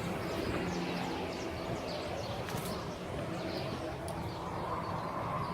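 Outdoor ambience: small birds chirping with short, quick calls over a steady low rumble of distant traffic or engine noise.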